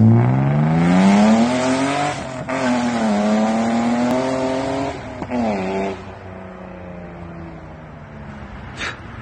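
BMW E36 M3 straight-six with a muffler delete under hard acceleration: the exhaust note climbs steeply, dips at a gear change about two seconds in and climbs again, shifts once more about five seconds in, then falls away as the throttle is lifted, settling into a lower, quieter drone that slowly drops in pitch.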